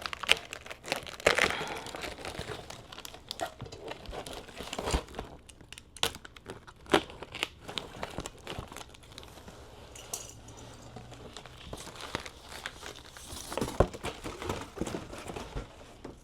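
Irregular rustling and crinkling with scattered clicks and a few sharper knocks as motorcycle parts are handled and test-fitted.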